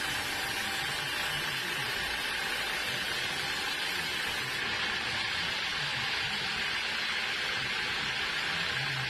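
Sawmill saw running with a steady hiss.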